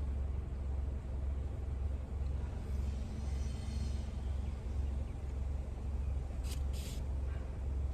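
Steady low rumble of a car heard from inside the cabin, with two short clicks about six and a half seconds in.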